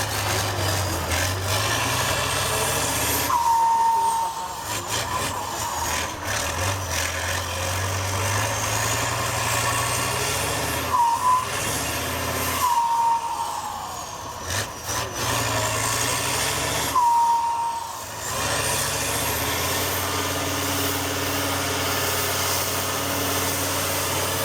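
Heavy off-road truck engine running under load. Its sound drops out and picks up again several times, with a short whistling note about four times.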